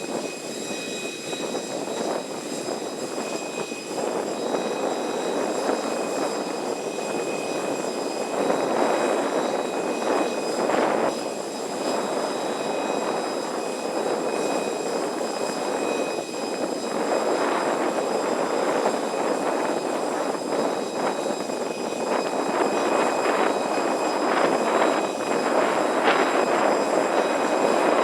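Steady jet aircraft noise on an airport apron: a rushing hum with faint high whining tones over it, growing slightly louder toward the end.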